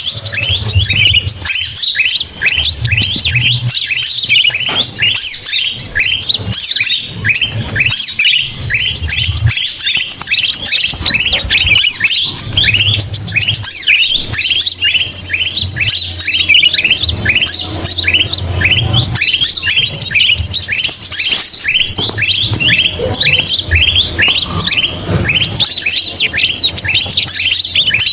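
A dense chorus of noisy small birds, bulbuls (kutilang) among them, chattering without a break: many rapid, overlapping chirps and short falling notes. It is a bird-luring call track, with a low hum coming and going underneath.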